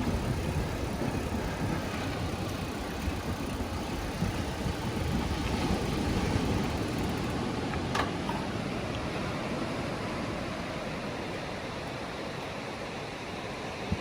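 Ocean surf washing onto a beach: a steady rushing noise that swells and eases, with a single short click about eight seconds in.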